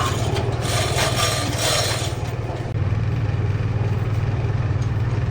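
Heavy boring machine cutting a steel pipe: a steady low machine drone with a harsh scraping cutting noise for the first couple of seconds.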